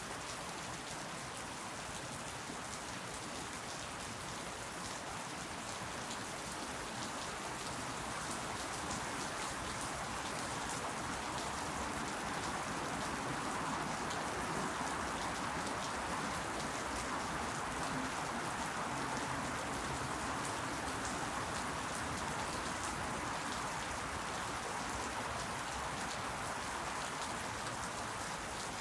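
Steady rain falling, a dense hiss of drops pattering on leaves, swelling a little in the middle.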